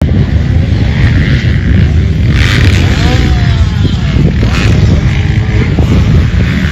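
Dirt bike running close to the microphone: a loud, rough, steady rumble.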